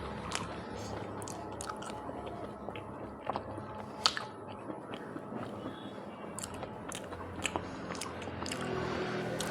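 Close-up eating sounds: a person biting and chewing food, with many short wet mouth clicks and one sharper click about four seconds in.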